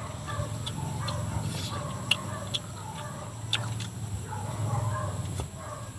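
A person chewing food close to the microphone, with a few sharp wet lip smacks.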